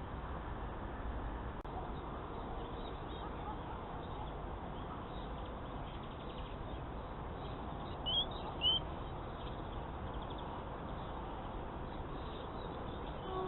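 Small songbird giving two short, high rising chirps about eight seconds in, with faint scattered twittering, over a steady hiss.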